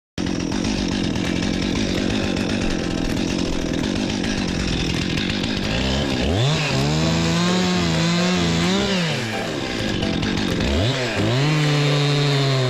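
Chainsaw engine running: an uneven, noisy stretch for about six seconds, then it revs up and holds at high speed, drops back briefly, and revs up and holds again near the end.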